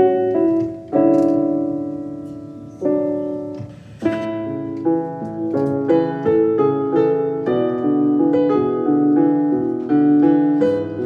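Solo piano music: a few slow chords, each left to ring and fade, then a quicker flowing line of notes from about four seconds in.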